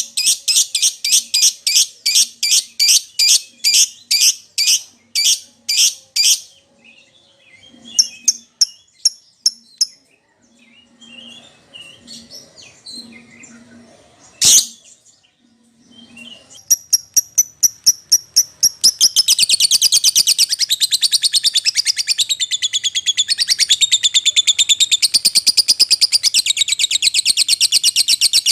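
A lovebird calling to a companion or rival. It gives a run of sharp, high chirps about three a second, then a quieter stretch of scattered chirps with one loud chirp about halfway. Chirps then speed up into a continuous fast, high-pitched chattering for the last third.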